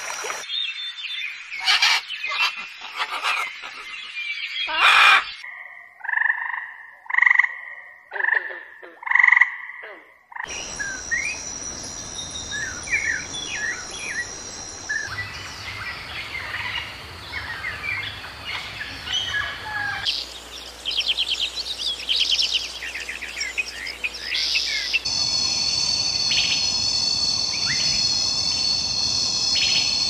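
Bird calls and songs from a string of different wild recordings that change abruptly every few seconds: a run of about five loud, evenly spaced calls, then scattered chirps, then rapid trills. Near the end comes a steady high ringing made of several held tones.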